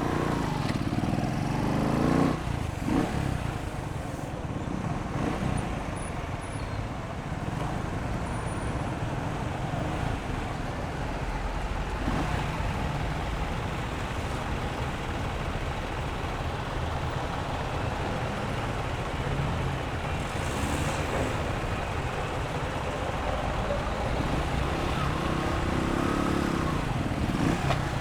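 Motorcycle running on the street with steady road and wind noise. The engine pitch rises and falls near the start and again near the end as it changes speed.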